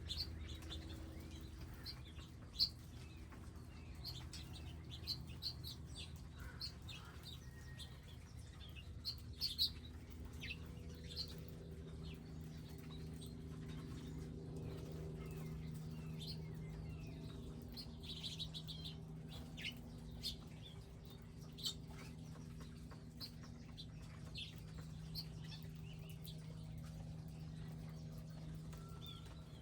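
Small wild birds chirping at feeders, many short, high chirps scattered irregularly throughout, over a low steady hum.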